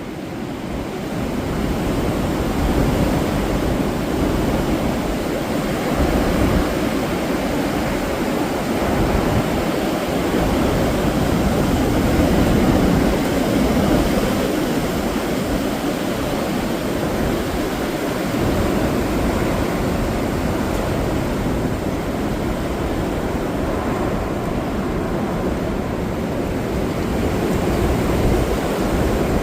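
Strong wind blowing and buffeting the microphone: a loud, continuous rushing with a rumble that rises and falls in gusts.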